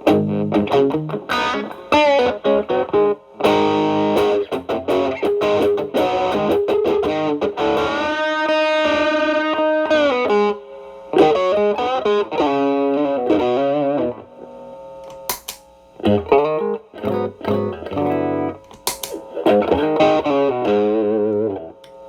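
Stratocaster electric guitar driven through an Xotic BB Plus preamp into a Marshall Valvestate amp, playing an overdriven lead. It plays phrases of single notes, with a long held, wavering note around the middle and a couple of short pauses.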